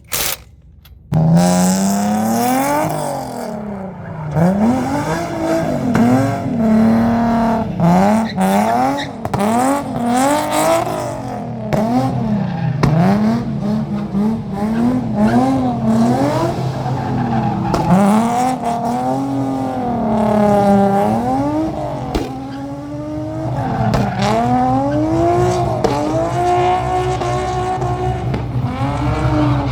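Drift car engine revving hard, its pitch climbing and dropping again and again as the throttle is worked through a drift, with tyres squealing. It starts abruptly about a second in.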